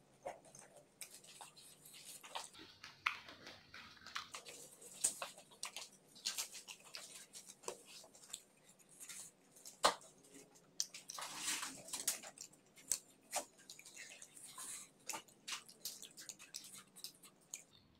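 Close-up eating sounds: wet chewing and lip smacks with irregular crunches while fried chicken and spicy instant noodles are eaten.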